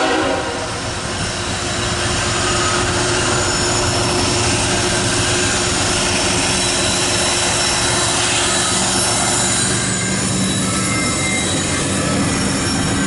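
CSX intermodal freight train rolling past: a loud, steady rumble of the locomotives and stack cars on the rails, with faint thin squealing tones from the wheels.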